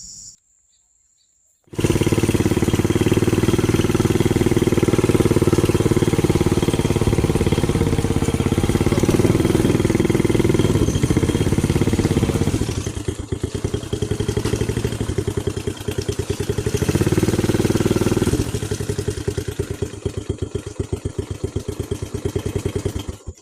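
Motorcycle engine running while riding, starting abruptly about two seconds in. The throttle eases about halfway, opens up again briefly, then drops back to a lighter, pulsing run that stops abruptly near the end.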